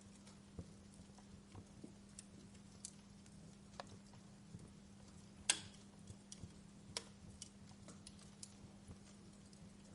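Wood fire crackling softly in a fireplace: scattered small pops and ticks, with a sharper pop about five and a half seconds in and another about a second later, over a faint steady low hum.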